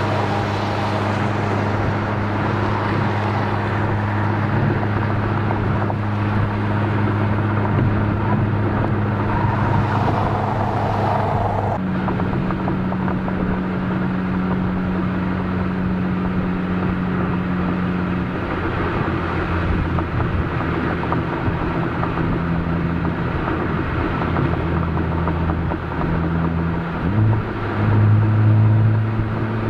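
Exhaust of a Honda Civic Type R (FK8) turbocharged 2.0-litre four-cylinder, with a catted downpipe and stock cat-back, heard at the tailpipe while driving at steady revs. The note shifts about twelve seconds in, then climbs and gets louder near the end as the car accelerates.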